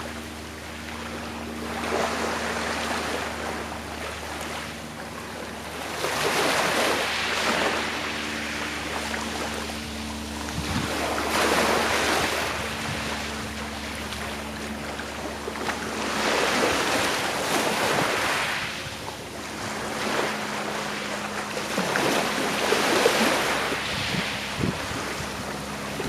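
Sea waves washing onto a shore, each wave swelling and falling away about every five seconds. A faint steady low hum lies underneath.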